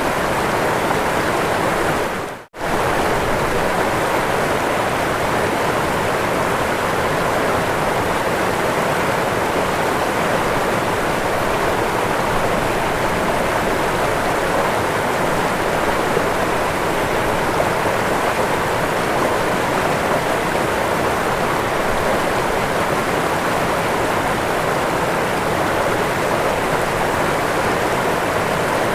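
Waterfall rushing steadily, a dense even roar of falling water. It drops out for a split second about two and a half seconds in, then resumes unchanged.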